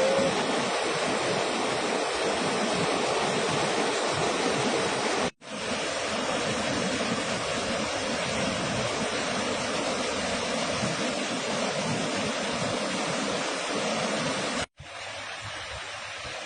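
Steady rushing noise of a tropical storm, much like heavy rain or pouring water. It breaks off abruptly about five seconds in and again near the end, and the last stretch is quieter.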